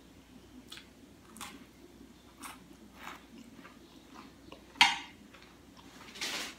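Close-miked chewing and wet mouth smacks of a person eating spaghetti and meatballs, with one sharp click a little under five seconds in and a longer wet sound near the end.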